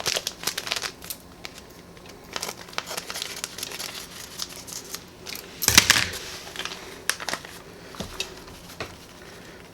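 Taco seasoning packet being handled over the Dutch oven: crinkling and rustling with scattered light clicks, and one louder crinkle about six seconds in.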